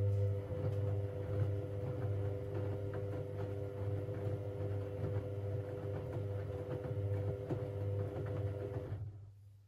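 Siemens Siwamat 6143 front-loading washing machine turning its drum during a boil wash: a steady motor hum with laundry and water sloshing and clicking in the drum. The drum stops about nine seconds in and the hum fades away, as in the machine's stop-start wash rhythm.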